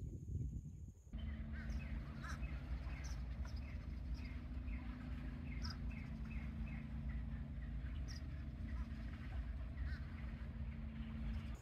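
About a second in, the sound switches to birds calling: many short chirps in quick runs, over a steady low hum and wind noise.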